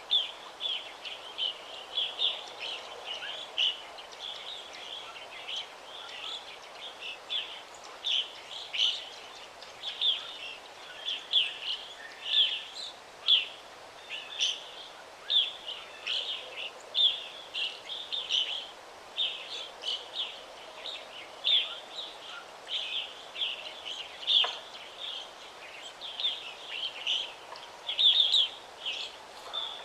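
Wild birds chirping continuously, short high chirps several times a second, over a faint steady background hiss.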